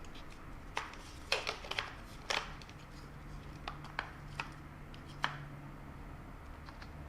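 Light, scattered clicks and taps of a plastic shifter plate cover being handled and refitted, with a cluster in the first two and a half seconds and a few single taps after.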